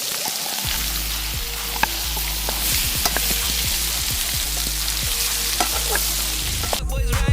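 Chicken leg quarter sizzling in butter in a skillet over a campfire, with a few sharp pops. Music comes in near the end.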